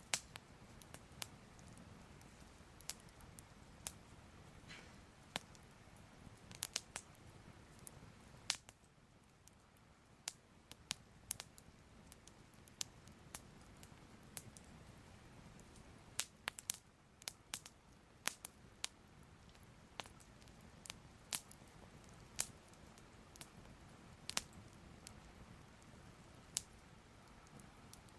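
Soft fire crackling: faint irregular pops and snaps over a low hiss, bunched more thickly a little past the middle.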